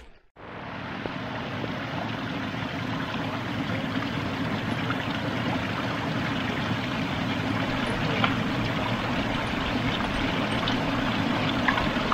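Running water: a steady rush that starts suddenly and cuts off near the end.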